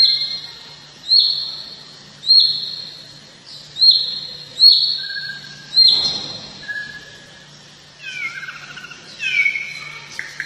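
Songbird call from a bird-song tutor recording: a clear high whistle repeated about six times at an even pace, followed from about eight seconds in by a different run of quick falling, rougher notes.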